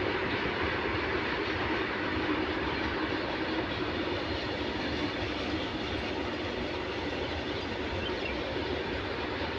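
Indian Railways train running through at speed: a steady noise of wheels and carriages on the rails.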